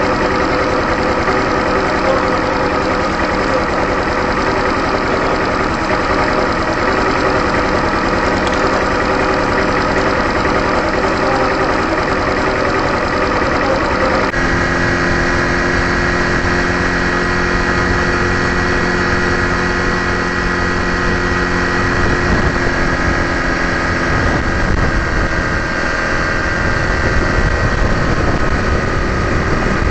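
Honda Super Cub 110's small single-cylinder four-stroke engine running steadily on the move. Its note changes abruptly about halfway through and turns rougher and less even near the end.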